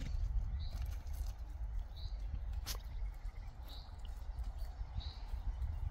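A bird giving four short high chirps, about one and a half seconds apart, over a steady low rumble, with one sharp click near the middle.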